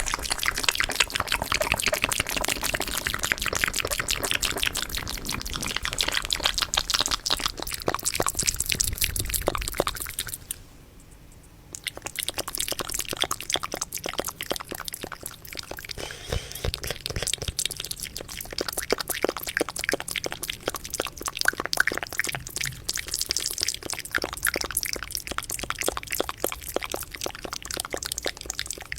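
Fast, wet ASMR mouth sounds close to the microphone: a dense run of clicks and smacks that stops for about a second some ten seconds in, then carries on.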